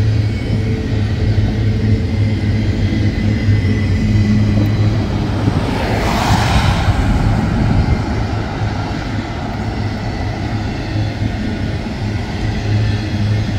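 Diesel freight train running: a steady low locomotive engine drone over rumble, with a brief rushing swell about six seconds in.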